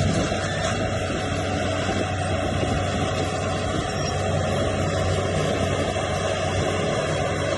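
Heavy construction machinery's engine running steadily with a low, even hum.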